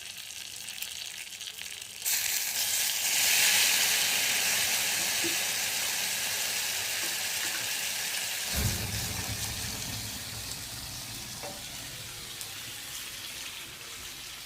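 Rum hitting chicken frying in hot mustard oil in a ladle: a sudden loud sizzle about two seconds in that slowly dies down, with a low rushing sound joining past the middle.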